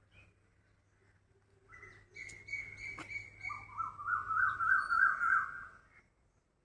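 Bird calling: a high piping note broken into quick pulses, then a louder warbling trill that swings rapidly up and down, with a single sharp click about three seconds in.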